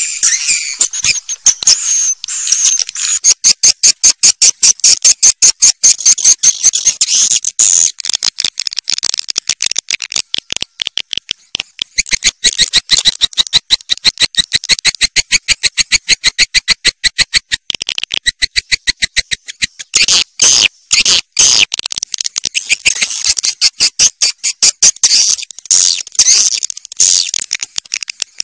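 Recorded swiftlet calls, of the kind played as a lure: a fast, even train of sharp, high chirping clicks, several a second, broken by a few short gaps about twenty seconds in.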